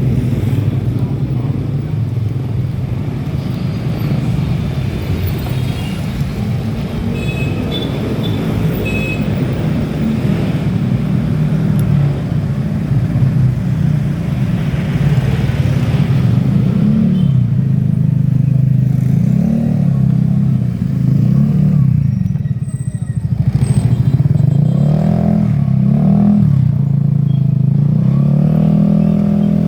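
Motorcycle engine running under way, its pitch rising and falling repeatedly as the throttle opens and closes.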